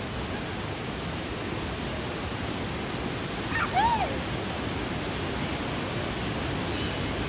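Steady rush of a waterfall. A short high call rises and falls over it a little under four seconds in.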